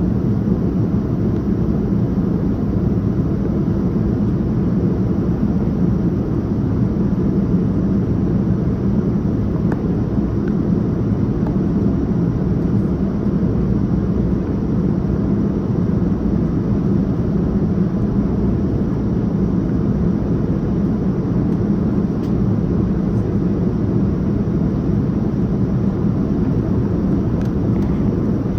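Steady low cabin noise inside a Boeing 787-9 airliner: engine and airflow rumble heard from a passenger seat, unchanging throughout.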